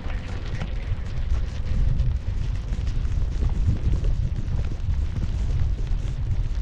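Wind buffeting the camera's microphones on a run through powder snow in a blizzard: a constant heavy low rumble with a fainter hiss of snow and air above it.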